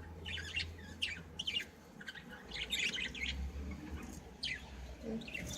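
Budgerigars in an aviary chirping and chattering in short, scattered bursts, busiest about halfway through.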